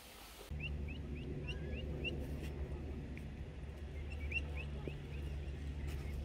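A bird calling in two runs of short, quick upward chirps, about three or four a second, over a steady low hum.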